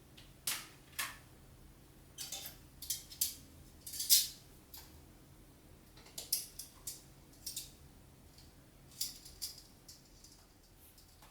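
Kitchen utensils and dishes being handled during food preparation: scattered clicks, taps and short scrapes, the loudest a brief scrape about four seconds in.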